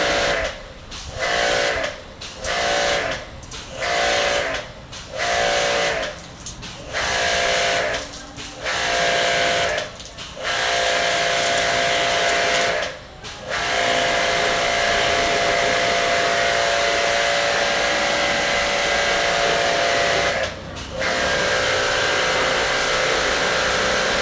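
Pressure washer spraying water in a steady hissing jet, the pump motor humming underneath. The spray stops briefly about every second and a half at first, then runs longer with two more short breaks.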